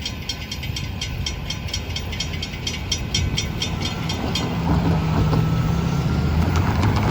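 Freight train cars of an intermodal train rolling past, wheels clicking evenly over rail joints about four times a second. About halfway through, the clicking fades under a steady low hum that grows louder.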